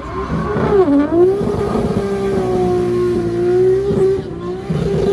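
Drift car's engine held at high revs while it spins its rear tyres in a smoky donut. The pitch dips briefly about a second in, then climbs back and holds steady.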